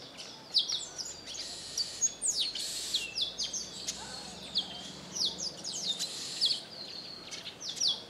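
Wild birds chirping: a dense run of short, high-pitched chirps that fall quickly in pitch, several a second, over faint outdoor background noise.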